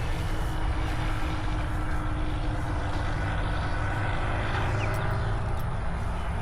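Distant paramotor engine and propeller droning steadily, a little stronger around four to five seconds in, under heavy wind rumble on the microphone.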